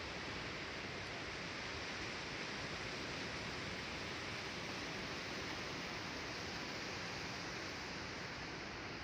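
Steady, even wash of sea surf, with no distinct events.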